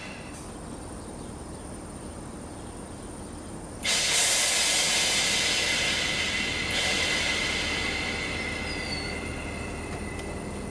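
Train at a station platform: a low rumble, then about four seconds in a sudden loud hiss with a high steady squeal in it, easing off over the following seconds.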